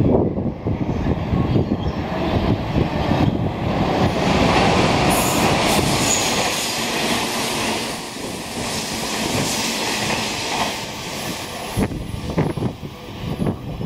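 Hanshin 8000 series electric train passing through the station at speed, its wheels clattering over the rail joints. The noise is loudest about four to seven seconds in, then eases off.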